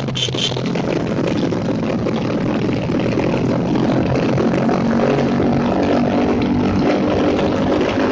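Motorcycle engines running steadily, with a short high chirp just after the start.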